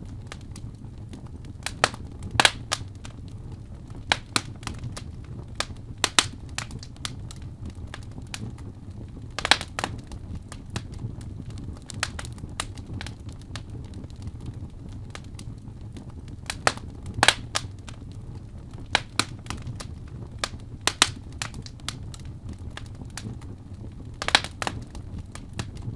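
Fire burning in a fireplace: a steady low rumble of the flames under irregular crackles and pops, with a louder snap every few seconds.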